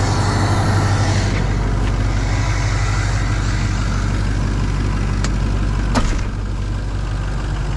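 Ford 6.0 Powerstroke V8 turbodiesel idling steadily, with a single sharp knock about six seconds in, after which the sound turns duller.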